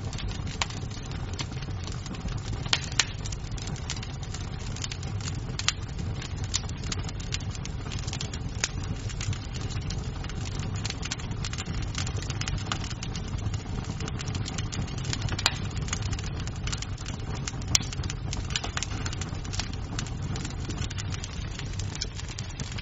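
Wood fire in a fireplace crackling, with frequent sharp snaps and a few louder pops over a steady low rumble of the flames.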